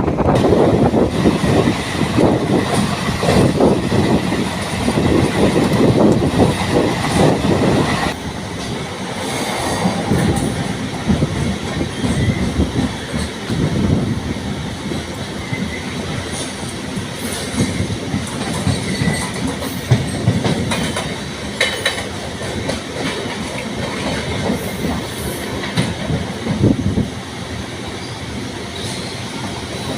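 MEMU electric passenger train running along the track, its wheels clattering over the rails. The noise is heavier for the first eight seconds or so, then eases to a steadier, quieter run.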